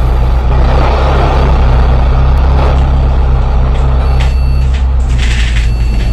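Bus engine running under way, heard from inside the passenger cabin as a steady low drone with road noise. Two short hissing bursts come about four and five seconds in.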